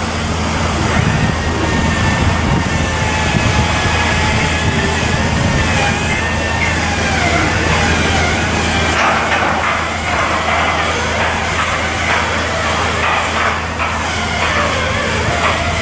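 Heavy machinery running steadily with a constant low hum and wavering higher-pitched whines, the low hum shifting slightly about nine seconds in.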